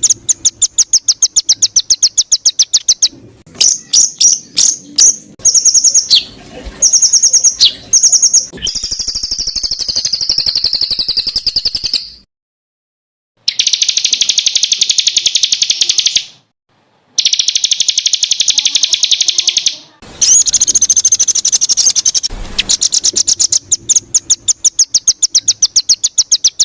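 A songbird sings rapid-fire 'tembakan' phrases: strings of sharp, high notes repeated many times a second, mixed with fast buzzy trills. They come in bursts broken twice by short, abrupt silences.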